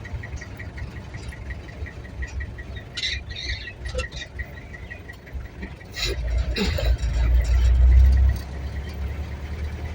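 Vehicle cabin noise while driving: a steady low engine and road rumble that swells louder from about six seconds in to just past eight, with a faint rapid ticking throughout.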